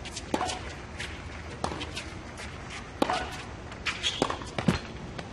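Tennis rally on a hard court: sharp racket-on-ball hits about every second and a half, mixed with short squeaks of shoes on the court.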